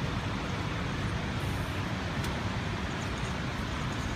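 Steady outdoor rumble under a continuous hiss of deer meat and vegetables frying on a griddle over charcoal, with a couple of faint clicks of tongs and fork against the pan.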